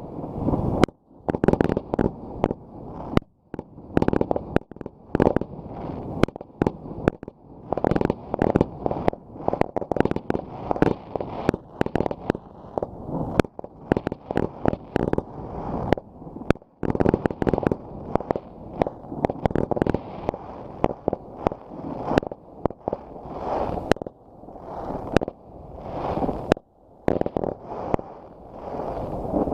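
Fireworks going off in quick succession: many sharp bangs and cracks, several a second, over a continuous rumbling echo.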